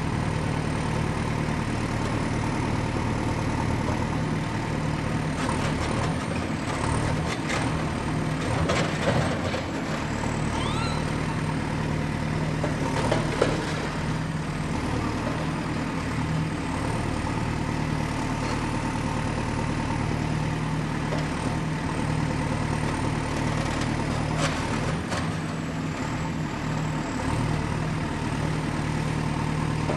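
Excavator's diesel engine running steadily, with a cluster of sharp metal clanks and a short rising squeal about a quarter of the way in, and a few more clanks near the end.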